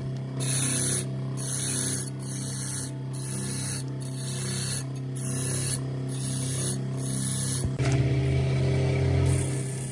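Spray can hissing in short passes about once a second, then one longer spray near the end, over a steady low hum.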